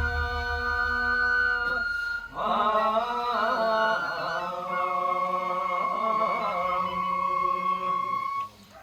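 Traditional nenbutsu kenbai accompaniment with long held melodic notes in a chant-like style. There is a short break about two seconds in, and the music drops away briefly near the end.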